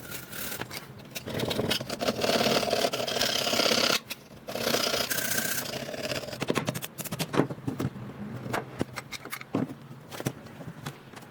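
Metal parts of a Kalashnikov rifle being scraped and rubbed in rust-removal work, a steady scraping noise in two stretches with a short break between them. This is followed by a series of scattered sharp metallic clicks and knocks as parts are handled.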